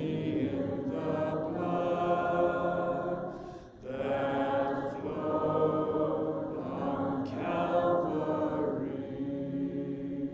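Congregation singing a hymn a cappella, many voices in long held phrases with a short break partway through; the singing tapers off near the end.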